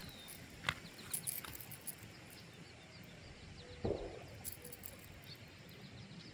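Quiet creekside ambience with a few small clicks, and about four seconds in a single dull bang: a distant gunshot.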